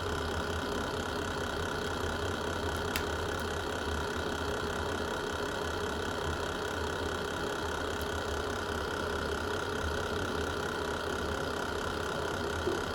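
Fireplace fire burning with a steady low rumble and hiss, broken by a couple of sharp crackles, one about three seconds in and one about eight.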